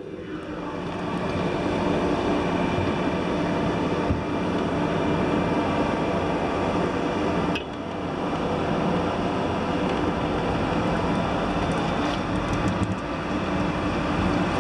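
Rescue-boat davit winch running steadily as it hoists the boat, the noise building up over the first two seconds, with a brief dip about eight seconds in.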